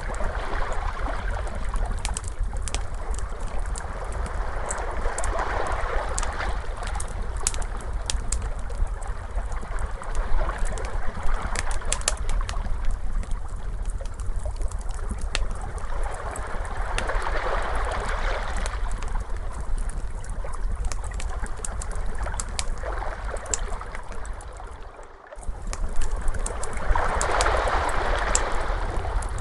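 Ocean waves washing in and out, swelling about every ten seconds, mixed with the sharp pops and crackles of a wood fire over a low steady rumble. The sound briefly drops away about 25 seconds in before the waves swell again.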